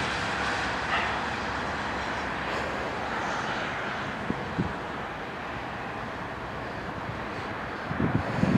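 Norfolk Southern train passing with its diesel locomotives, a steady rumble throughout, with two short knocks around the middle.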